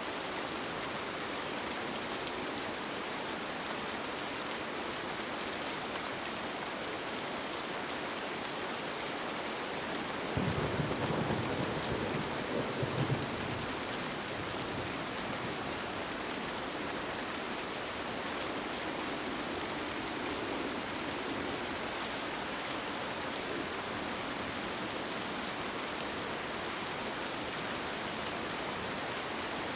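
Steady rain falling, an even hiss. About ten seconds in, a low rumble rises for around three seconds and fades, with a fainter one later.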